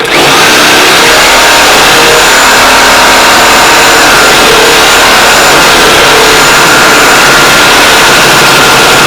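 Reciprocating saw cutting into metal, a sheet metal screw welded into a truck's fender support. It starts suddenly and runs loud and steady without a break.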